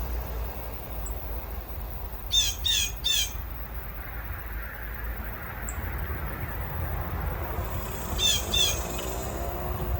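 Northern cardinal singing: a quick run of three down-slurred whistled notes about two and a half seconds in, and two more near the end. Two faint high chips fall in between.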